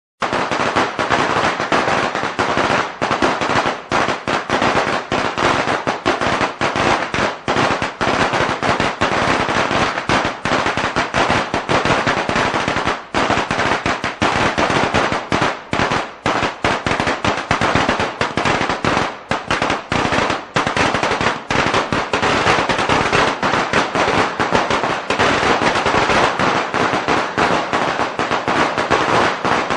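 A long string of Chinese firecrackers (鞭炮) going off in a rapid, unbroken crackle of sharp bangs, starting abruptly and running on without a pause.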